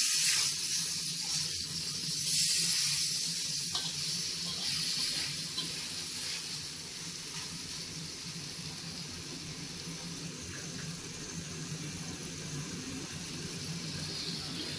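Frog meat frying in hot oil in a pan: a steady sizzle, a little louder about two seconds in, over a low steady hum.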